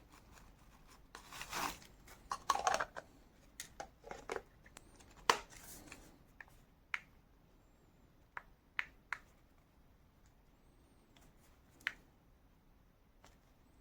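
Handling noises: rustling for the first few seconds, then single sharp clicks spaced a second or two apart, like small plastic parts being handled and snapped together.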